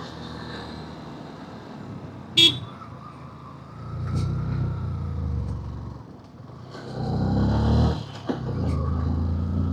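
Road traffic: motor vehicle engines running, swelling louder twice, with one short horn toot about two and a half seconds in.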